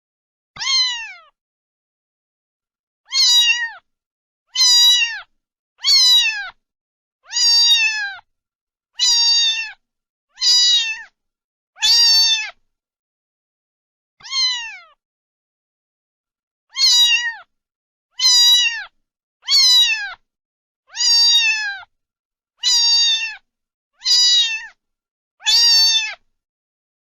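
A cat meowing over and over: about sixteen high-pitched meows, each under a second long and dropping in pitch at the end, with silent gaps between them.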